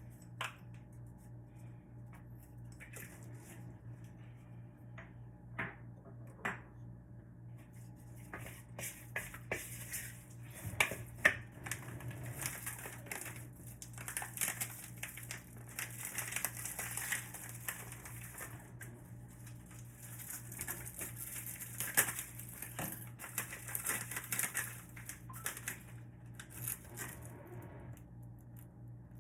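Kitchen work sounds: utensils and cookware clinking and knocking over a steady low hum, with uneven crackling from about eight seconds in.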